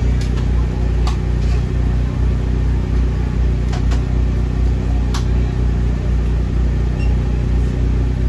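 A loud, steady, low mechanical hum from a food truck's running equipment, with a few light clicks and knocks from work inside the truck.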